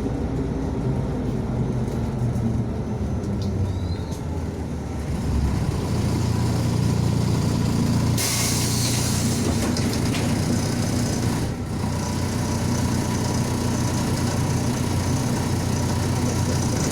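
MAZ-105 bus engine running while under way, the low engine sound growing louder about five seconds in. A steady hiss starts suddenly about eight seconds in.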